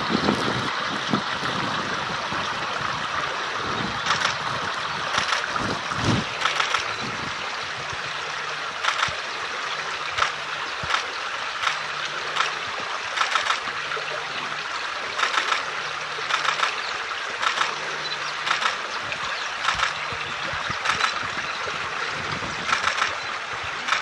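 Stream water running steadily, with short sharp ticks repeating roughly once a second.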